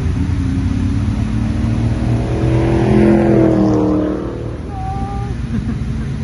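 Car engine accelerating, its pitch rising to a peak about three seconds in, then easing off and dropping away.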